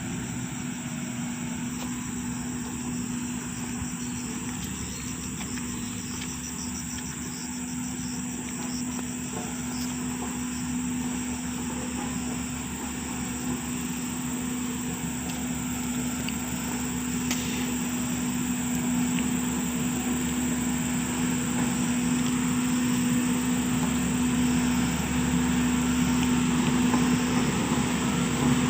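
Engine of heavy road-work machinery running steadily with a constant hum, growing gradually louder over the last third.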